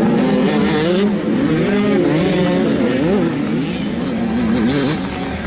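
Several 85cc two-stroke motocross bikes racing together, their engines revving up and down over one another.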